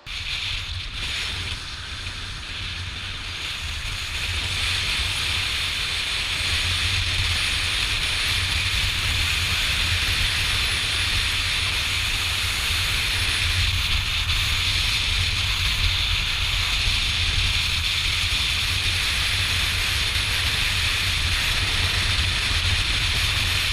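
Steady wind rush on the microphone of a riding motorcycle, over a low rumble from the bike and road. It starts suddenly and gets a little louder about four seconds in.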